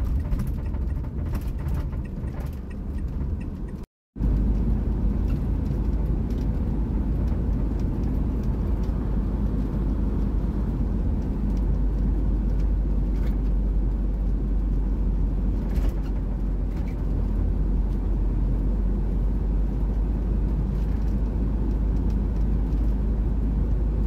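Old diesel campervan driving, a steady low engine and road rumble that breaks off for an instant about four seconds in.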